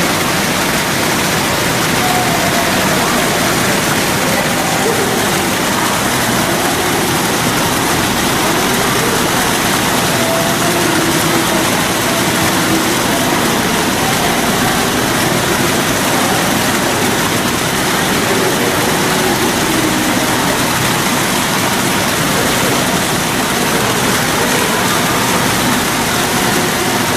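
Steady rushing of falling water, with faint voices murmuring underneath.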